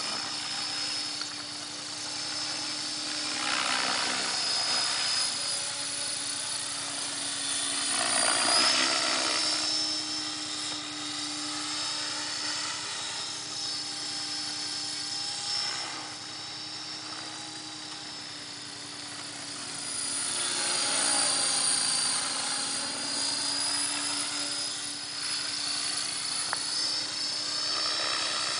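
Align T-Rex 500 electric RC helicopter in flight: steady rotor whir with a high motor and gear whine, growing louder and fading several times as it passes nearer and farther, loudest about eight seconds in.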